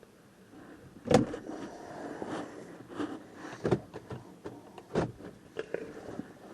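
Handling noises as things are moved about and rummaged through: a sharp click about a second in, then rustling with a few knocks and clicks.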